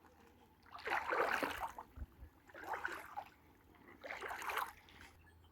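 Water splashing in three separate bursts, each under a second long, about a second and a half apart.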